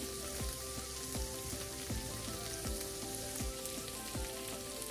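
Chicken pieces in ginger-garlic-chilli paste frying in oil in a steel kadai, a steady sizzle. Background music with a steady beat plays alongside.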